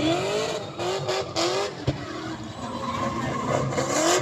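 A car engine revving, its pitch climbing several times in short rising sweeps, with a sharp click about two seconds in.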